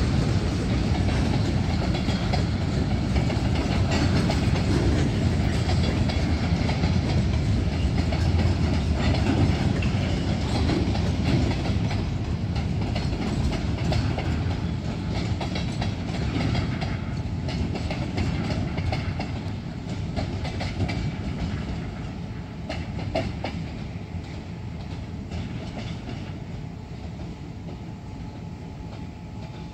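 Freight cars, boxcars and gondolas, rolling along the track: a steady rumble of steel wheels on rail, with a run of clicks and clunks as the wheels pass over rail joints. The sound dies away over the last third.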